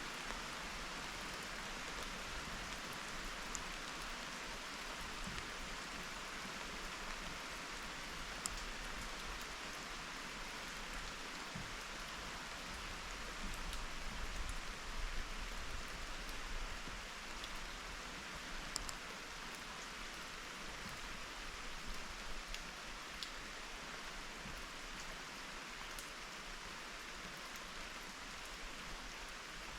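Steady rain falling, a continuous even hiss with scattered sharp ticks of individual drops striking a surface, a little heavier about halfway through.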